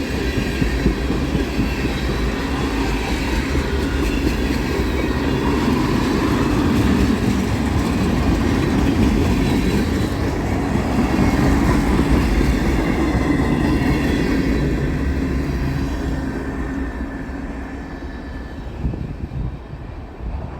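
Freight train cars rolling past, wheels clicking over rail joints with some wheel squeal. The sound fades over the last few seconds as the end of the train goes by.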